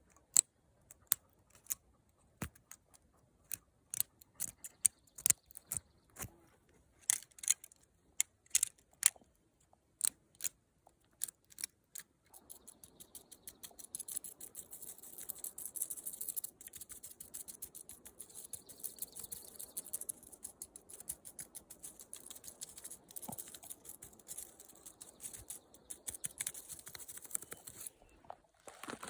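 Natural materials handled close up for ASMR: a string of separate sharp snaps and taps, then from about twelve seconds in a dense, continuous crackling rustle that stops briefly near the end.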